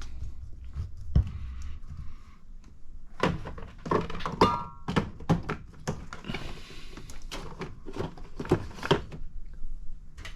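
Small plastic and metal parts and tools being handled and set down on a workbench: an irregular run of clicks and knocks, with a low hum in the first couple of seconds.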